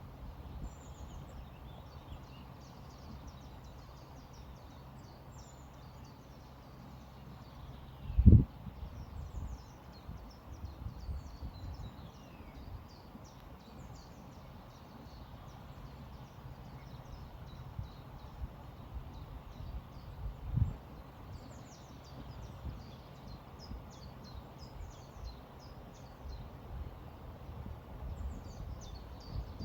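Small birds chirping and twittering over a river flowing steadily, with a low rumble underneath. Two brief low thumps stand out, the louder about eight seconds in and another about twenty seconds in.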